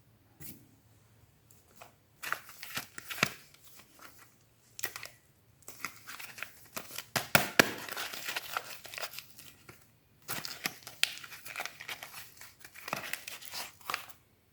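Wrapper of a bar of soap being torn open and crinkled by hand, in three bouts of rustling with sharp crackles, the longest in the middle.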